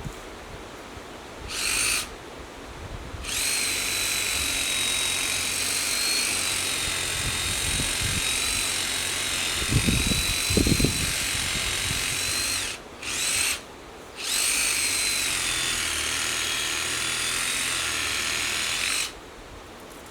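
A power tool's motor whining at a steady high pitch, run in several bursts: a short one, a long run of about nine seconds, a brief blip, then another run of about five seconds. A few low knocks come partway through the long run.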